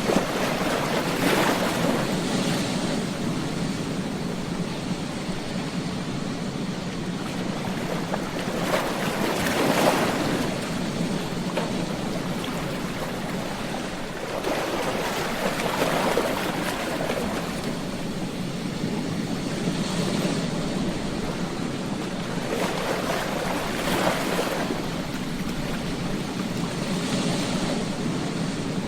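Ocean waves breaking on a beach: a steady wash of surf with a wave crashing and swelling every few seconds, about six times.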